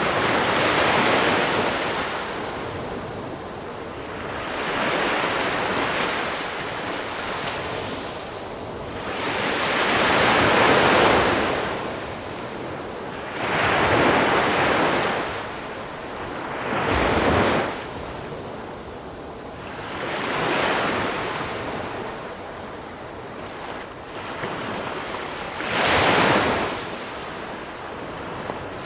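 Small sea waves breaking and washing up over a pebble shore, surging and falling back every few seconds, about eight times.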